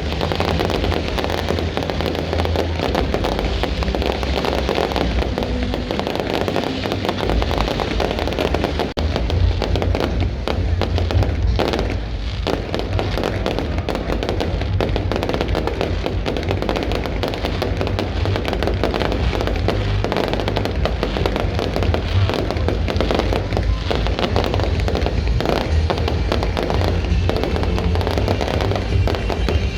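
Fireworks display: a dense, continuous barrage of booms, bangs and crackles, with music playing underneath.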